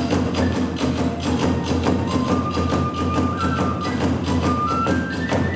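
Kagura hayashi ensemble playing fast: rapid drum and hand-cymbal beats under a held flute melody that climbs in steps through the second half.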